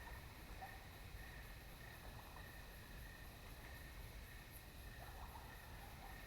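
Quiet night meadow: faint, steady rhythmic chirping of insects, about one and a half chirps a second.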